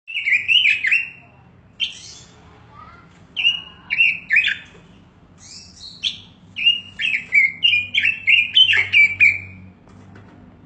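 A pet Pekin robin (red-billed leiothrix) singing: short phrases of quick, clear warbled whistles, with a longer run of notes in the second half.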